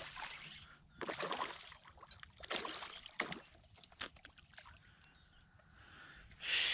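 Water splashing and sloshing around a fishing kayak: several short swishes about a second apart.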